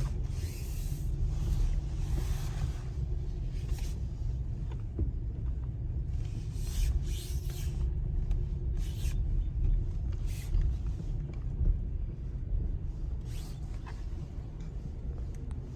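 Steady low road rumble of a vehicle being driven, with short hissing swells every second or so.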